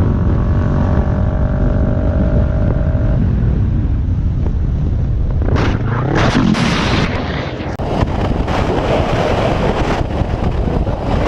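Road and engine noise from a moving vehicle, recorded by a dashcam: a low steady rumble with a steady tone for the first few seconds, then rougher noise with wind buffeting the microphone and a few sharp knocks from about halfway in.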